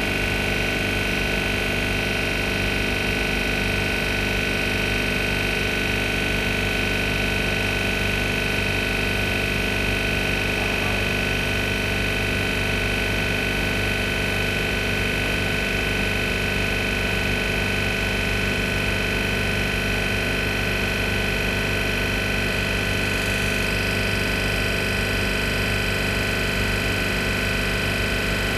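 Bitzer 2CES-4Y two-cylinder semi-hermetic reciprocating refrigeration compressor running steadily on a test run, drawing about 5 amps. A constant low hum with a high whine over it.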